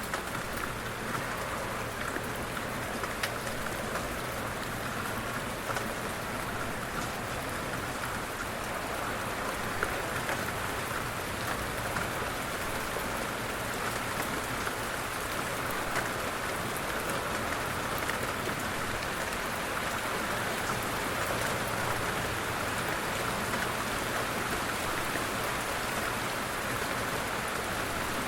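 Steady light rain falling, an even hiss with scattered sharper taps of individual drops.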